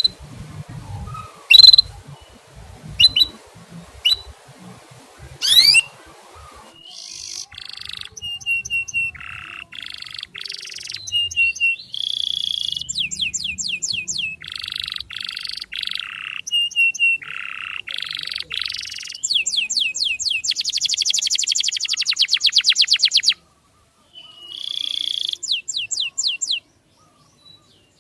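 Songbird singing as a tutor recording: sharp high chirps at first, then a varied song of whistled notes and trills, with a fast rattling trill of rapid repeated notes past the middle. The song cuts out briefly twice near the end.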